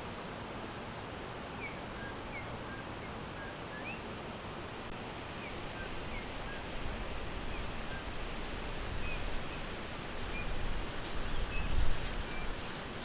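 Forest ambience: small birds giving faint, scattered short chirps over a steady rushing noise, like wind through leaves, which swells with a low rumble near the end.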